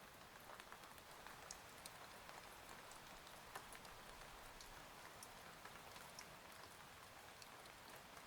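Faint rain ambience: a steady hiss of rainfall with scattered individual drops ticking.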